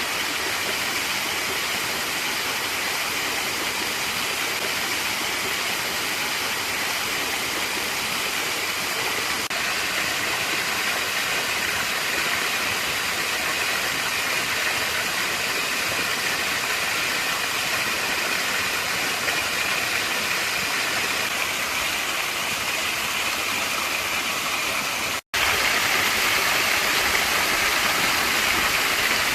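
Small waterfall: a steady rush of falling, splashing water, cut off for a split second near the end and then going on slightly louder.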